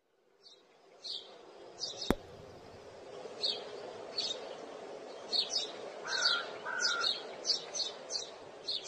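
Birds chirping: short high chirps repeating irregularly, with two lower, steadier calls a little after the middle, over a steady background hiss. A single sharp click about two seconds in.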